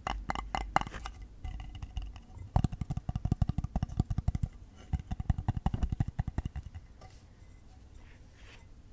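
Fingertips tapping quickly on hard objects. First comes a cluster of light taps with a faint ring, then two runs of rapid, duller taps, which give way to fainter taps near the end.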